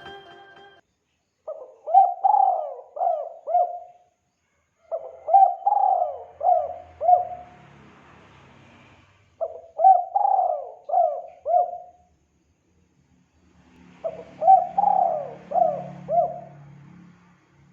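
Spotted dove (tekukur) cooing, played as a lure call: four phrases of about five hooting notes each, a few seconds apart.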